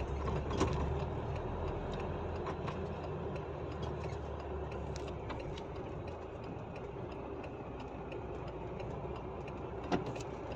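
Truck engine running steadily, heard from inside the cab, with road noise and a few faint clicks.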